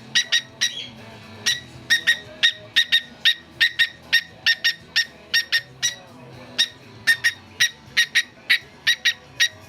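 Cockatiel making short, sharp chirps in a quick rhythm, about three a second and often in pairs, over faint background music.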